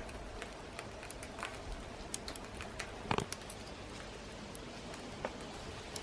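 Firewood burning in a fire stand under a homemade fire dome, crackling with scattered sharp pops, one stronger pop about three seconds in.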